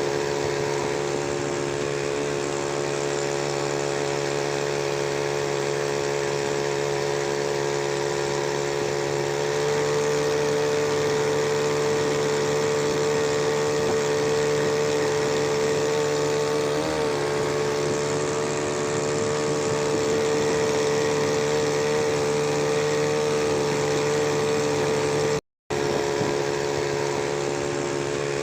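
Small 3 hp two-stroke outboard motor (Matsumoto MOB 830) running steadily, its pitch and level stepping up slightly about ten seconds in. It cuts out for a split second near the end.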